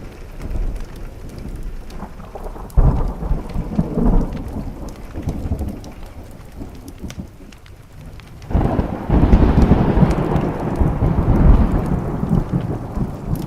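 Thunderstorm with steady rain on a window. A thunderclap breaks about three seconds in and rumbles for a few seconds. A second, louder clap comes about eight and a half seconds in and rolls on to the end.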